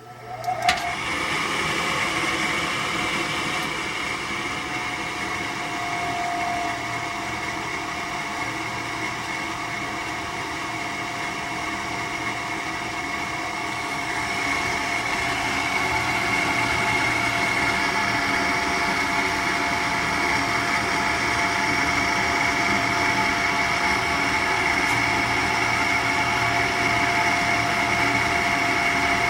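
Rheem RGPR two-stage gas furnace starting up and running: a steady mechanical whir with a high whine in it. It comes on suddenly about half a second in and gets a little louder about halfway through.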